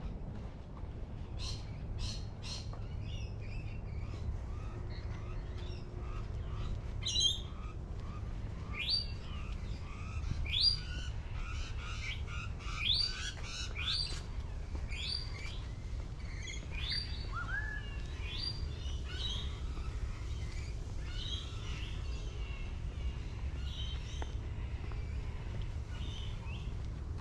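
Birds chirping and calling, with a run of short, sharp rising calls roughly once a second through the middle, over a steady low rumble.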